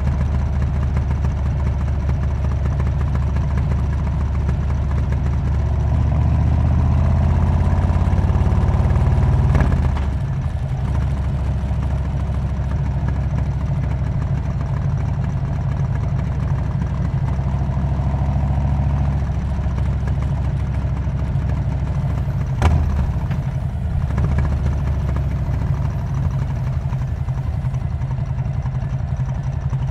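Harley-Davidson Road King's V-twin engine running through a Cobra aftermarket exhaust. Its pitch climbs from about six seconds in, then falls off sharply just before ten seconds. A single sharp click comes about two-thirds of the way through.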